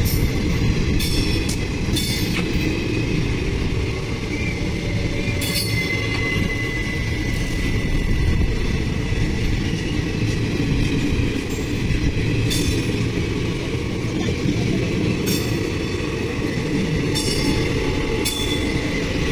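Passenger train coaches rolling past close by: a steady low rumble of wheels on the track, broken by irregular sharp clicks from the wheels. A thin high squeal is heard for a few seconds in the middle.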